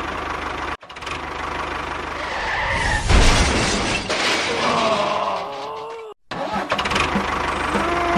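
A small engine running with a fast, even pulse, cut off abruptly twice. Gliding tones rise and fall over it in the middle.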